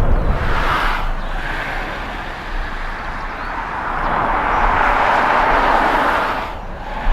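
Jet airliner engine noise: a steady rushing roar that swells for a couple of seconds past the middle, then drops off suddenly, over a low rumble.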